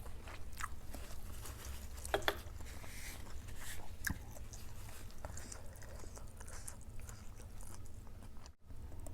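Close-up chewing and crunching of food, with irregular crisp clicks and crunches over a steady low hum.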